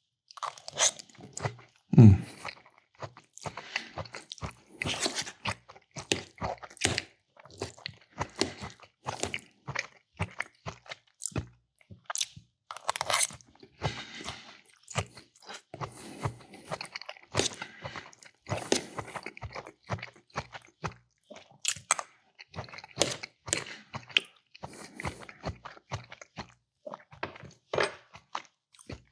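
A person chewing bacon-fried green beans and onions: a steady, irregular run of short crunches and wet mouth sounds.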